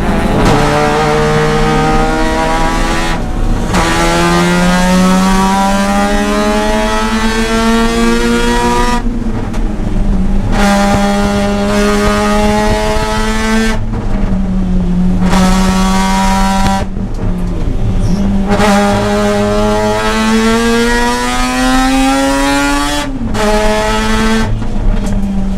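Mazda RX-8's two-rotor rotary engine at racing throttle, its pitch climbing again and again through the gears. About five short breaks where the throttle lifts for shifts or braking, the longest about ten seconds in.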